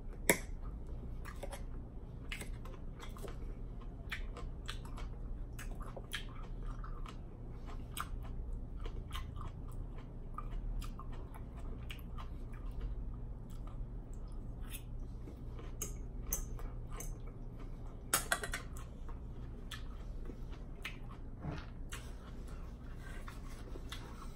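Close-miked chewing and crunching of a mouthful of Greek salad (lettuce and cucumber), with wet mouth clicks throughout. A sharp click just after the start, as the fork works in the bowl, and a louder cluster of clicks about 18 seconds in stand out.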